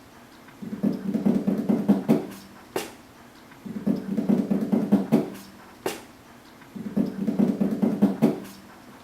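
Engine turned over by its starter motor in three short bursts of about a second and a half each, with a quick pulsing beat and a sharp click between bursts. The engine does not catch; it is being cranked to draw fuel up a line that has air in it.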